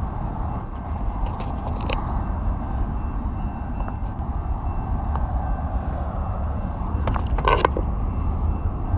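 Wind rushing over a GoPro's microphone while riding a BMX bike, with steady tyre noise on the pavement. A brief metallic rattle of the bike about seven seconds in.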